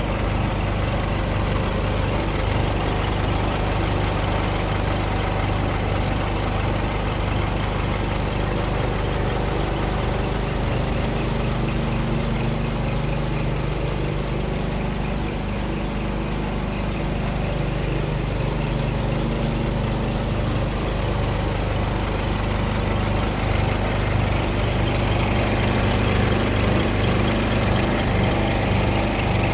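Scania engine idling steadily, a little louder over the last few seconds.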